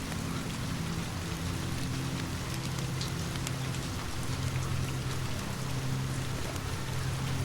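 Steady rain falling, with faint scattered ticks, over a low steady hum.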